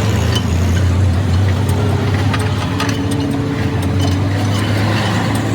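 A machine running steadily with a low hum, with a few faint ticks.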